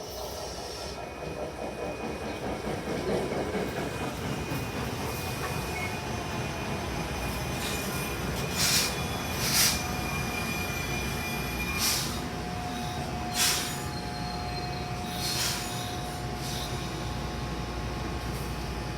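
A passenger train running past on the line. A steady rumble builds over the first few seconds, with a thin high whine and five short, sharp high hisses in the middle stretch.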